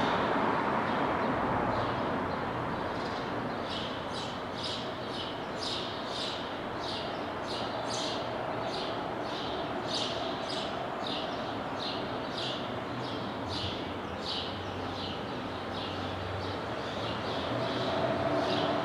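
A car's engine and road noise fade away over the first few seconds. Then a short high chirp repeats about twice a second over faint steady background noise, and a hum rises near the end.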